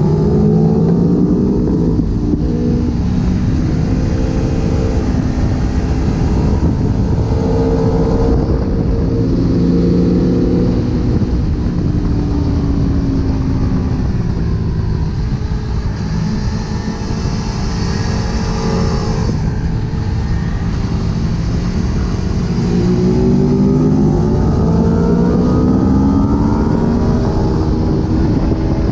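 Aprilia Tuono V4's V4 engine heard on board at speed, its pitch climbing and dropping back again and again as it pulls hard and shifts gear, over loud wind rush on the microphone.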